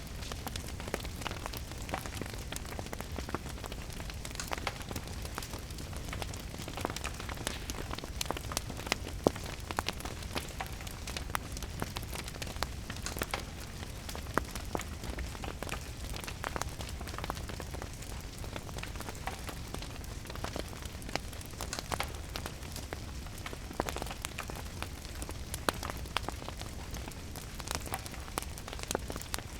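Fireplace crackling, with frequent sharp pops and snaps, over a steady patter of rain and a low rumble.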